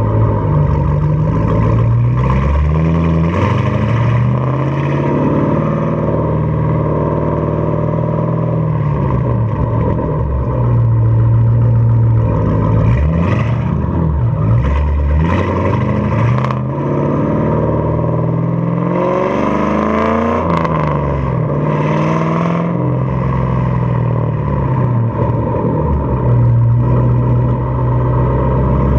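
The 4.6-litre three-valve V8 of a 2006 Ford Mustang GT running through an off-road X-pipe and Pypes Pype-Bomb axle-back mufflers, accelerating in first and second gear. The exhaust note climbs in pitch and falls back again several times as the car pulls away and shifts.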